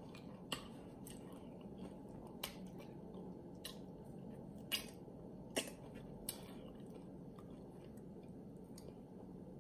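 Close-miked mouth sounds of a person chewing nacho chips: scattered short, sharp clicks and smacks, most of them in the first six seconds, over a faint steady hum.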